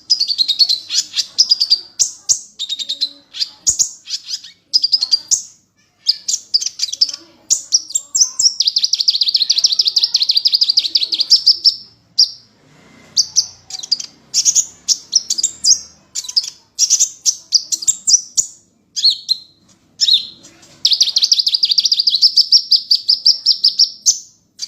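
A songbird singing loud, high, rapid phrases of chirps, broken by short gaps, with two long fast trills, one in the middle and one near the end.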